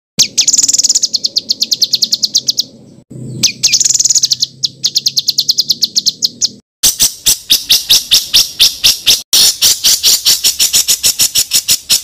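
A songbird's rough, rolling trills: runs of fast repeated notes, about a dozen a second, in four bursts that each stop abruptly. The first two runs are high and clear; the last two are coarser and spread over a wider range of pitch.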